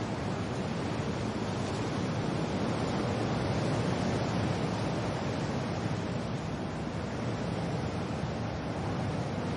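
Steady rush of wind and rain, swelling slightly a few seconds in and easing again.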